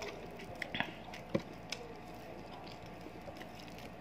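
Close-miked eating sounds: chewing with a few soft mouth clicks and smacks, mostly in the first two seconds, then quieter.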